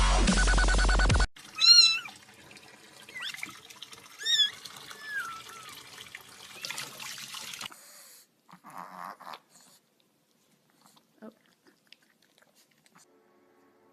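Dubstep music cuts off about a second in. A house cat then meows loudly, three calls over a few seconds, against a faint steady hiss.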